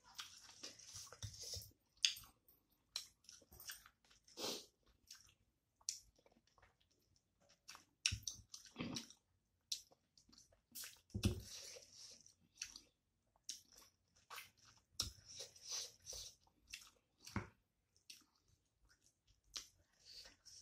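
Close-up eating sounds of a person eating rice and chicken curry by hand: irregular wet chewing, smacking and biting, with a few louder smacks and bites scattered through.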